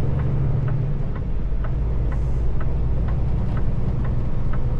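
Semi-truck engine running with a steady low drone heard from inside the cab, with a turn signal ticking about twice a second over it.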